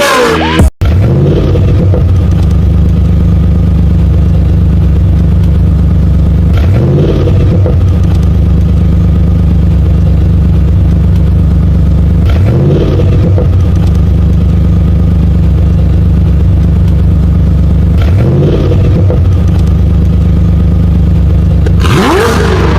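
Mazda car engine and exhaust idling with a steady, deep rumble, the throttle briefly blipped three times so the pitch rises and falls, about every six seconds. The sound cuts out briefly near the start.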